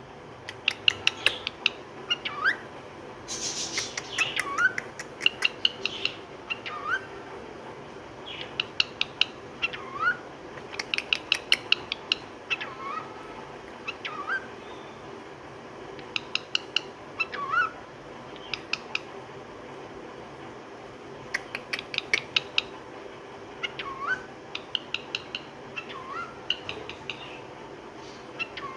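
Pet cockatiel vocalizing in repeated short phrases, each a quick run of sharp clicking ticks ending in a brief rising whistle, the bird's attempt at 'mithoo mithoo'.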